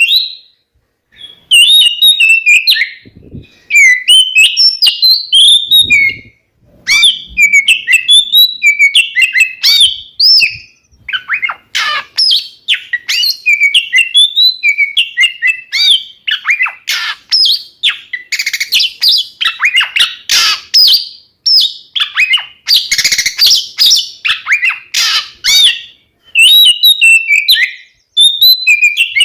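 Oriental magpie-robin (kacer) singing loudly: a rapid, varied stream of whistled notes, slurs and chattering phrases, broken by a few brief pauses.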